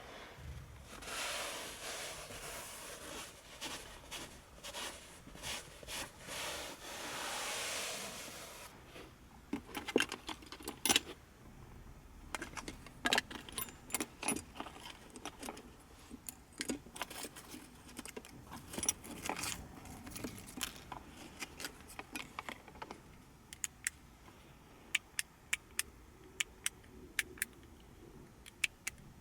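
Handling sounds in the cabin of a 1984 Mercedes-Benz 500SEL. For about the first eight seconds there is a rubbing, scraping sound in repeated swells. After that comes a long run of sharp clicks and metallic jingling, like keys being handled.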